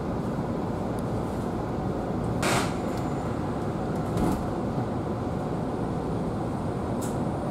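Steady running rumble of a Minobu Line electric train heard inside the carriage. A short sharp noise comes about two and a half seconds in, and fainter clicks follow near four and seven seconds.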